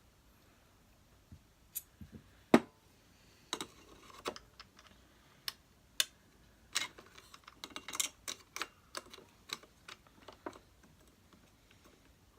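Hoover Senior Ranger upright vacuum cleaner handle parts and bracket being handled and fitted together by hand: irregular clicks and knocks, with one louder knock about two and a half seconds in and a quick run of clicks near the middle.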